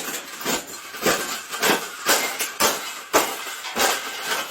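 A parrot rattling and banging at a cage, about two sharp clanks a second in an uneven run.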